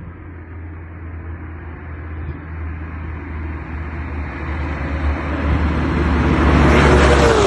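2014 Audi S6 V8 with a big single turbo accelerating hard under load, the engine sound building steadily louder and higher, then dropping off suddenly near the end as the pull ends.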